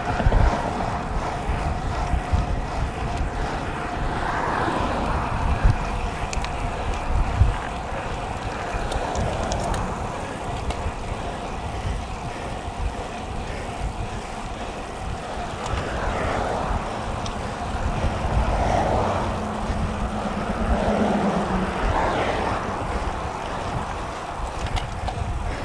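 Wind buffeting a road cyclist's microphone while riding, a steady low rush that swells and eases irregularly.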